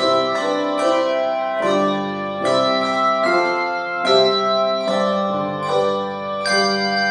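Instrumental keyboard music, chords struck every half second to a second and left to fade.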